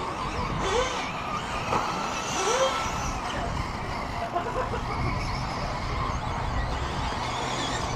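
Electric 1/10-scale 4WD short-course RC trucks (Tekno SCT410) racing around a track: a steady wash of tyre and chassis noise with faint rising and falling motor whines.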